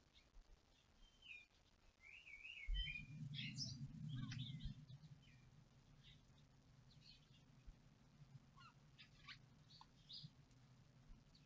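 Garden birds chirping and twittering faintly, in short calls and trills. A low hum comes in about three seconds in, loudest for a couple of seconds, then carries on more quietly underneath.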